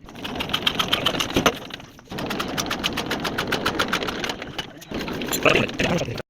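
Old diesel engine running with a rapid, regular knocking beat. The beat drops out briefly about two seconds in and again about five seconds in, and the sound cuts off suddenly near the end.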